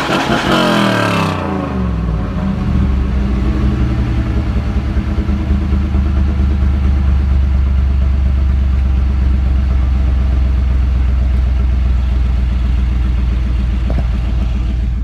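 1990 Pontiac Firebird engine coming down from a high rev, its pitch falling quickly over the first two seconds, then settling into a steady idle.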